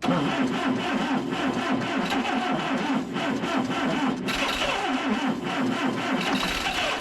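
Electric starter slowly cranking the freshly rebuilt engine of a 1964 Allis Chalmers i40 tractor, with a rhythmic chugging that starts suddenly and stops abruptly when the starter is released, without the engine catching. The slow cranking comes from the new high-compression pistons and rings being very tight in the cylinders, not from a weak starter or battery.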